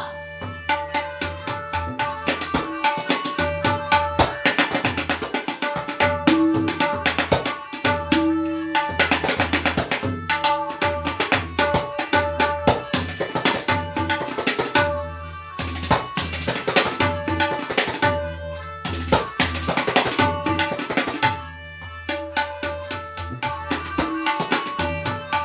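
Tabla solo in teentaal: rapid, dense strokes on the dayan and bayan over a steady, repeating melodic accompaniment, with a couple of brief breaks in the drumming.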